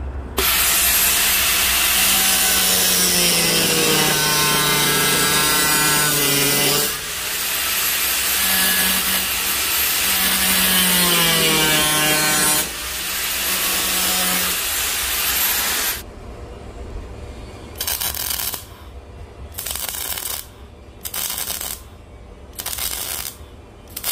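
Handheld electric power tool cutting and grinding through steel in long passes, its motor pitch sagging as it bites. In the last third it switches to about seven short bursts, roughly one a second.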